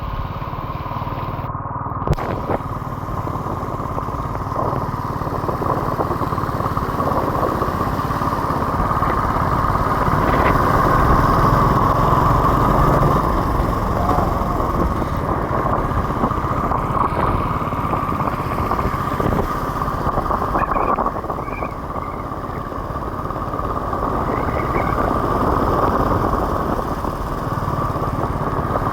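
Royal Enfield motorcycle running steadily while being ridden on the road, its engine note swelling and easing slightly a couple of times.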